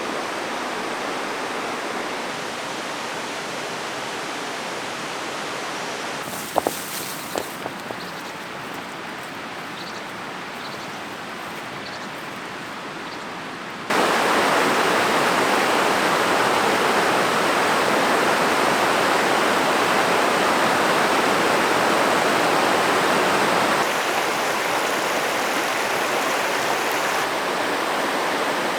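Valley stream rushing steadily, with a few sharp clicks about a quarter of the way in. The rush turns abruptly louder about halfway through and drops slightly again near the end.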